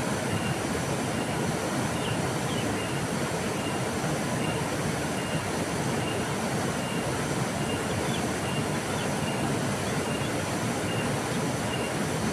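River water flowing in a steady, even rush, with faint short high peeps repeating every second or so.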